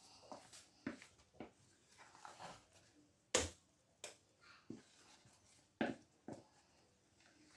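Light knocks and clicks of dishes and containers being handled in a kitchen, about seven separate strikes with the sharpest a little under halfway through.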